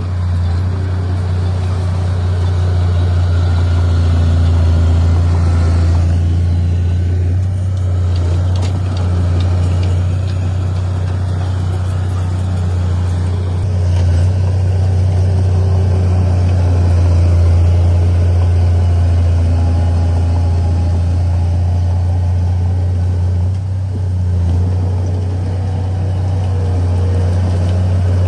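Diesel engine of heavy earthmoving equipment, such as a bulldozer or dump truck, running steadily under a deep, constant hum, dipping slightly in loudness a few times.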